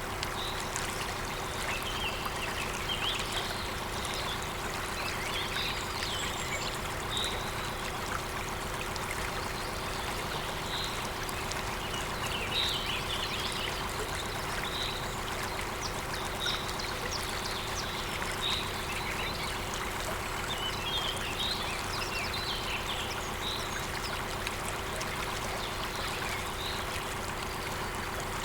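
Waterfall rushing steadily, with short, high bird chirps coming every second or two.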